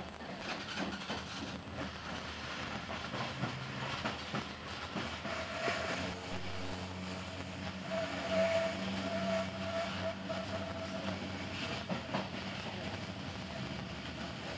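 Passenger train running, heard from inside the carriage: a steady rumble with wheels clicking over the rails, and a steady whine joining in about five seconds in and fading out around eleven seconds.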